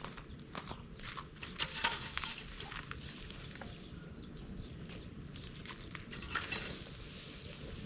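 Bonfire of dried bamboo and brush crackling, with irregular sharp pops, the loudest about two seconds in and again after six seconds, over a steady low noise.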